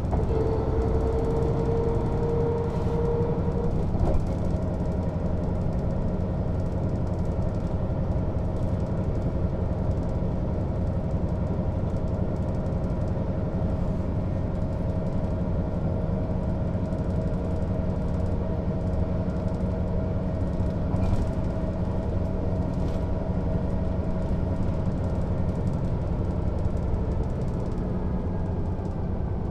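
Mercedes-Benz O 407 bus's six-cylinder diesel engine and drivetrain running steadily under way: a deep, even rumble with a steady whine over it. A whine rises briefly about a second in, then holds level.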